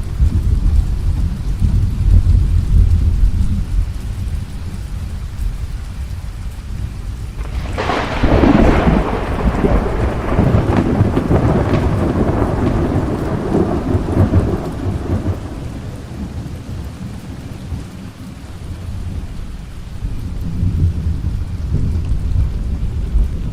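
Thunderstorm: rain falling with rolling thunder. A low rumble at the start, then a sharp thunderclap about a third of the way in that rumbles on for several seconds and fades, with more low rumbling near the end.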